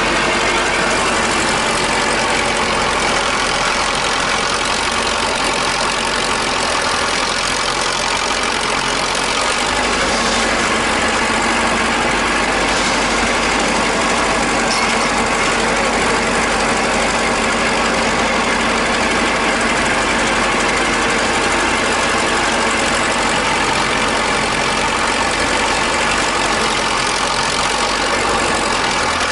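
Old tractor engine idling steadily.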